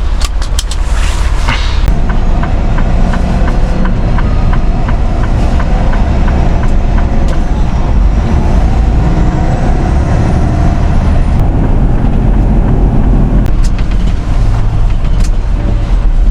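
Semi truck's diesel engine running steadily as the truck pulls away, with a regular click about twice a second for several seconds early on.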